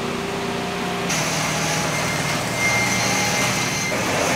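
Pickup truck engine running steadily. About a second in the sound shifts and a faint high whine joins it.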